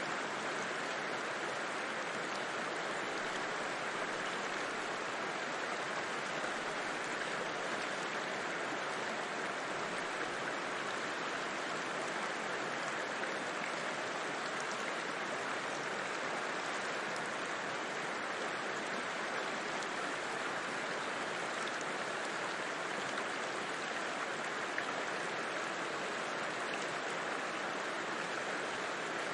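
River water flowing steadily, an even, unbroken rush with no changes.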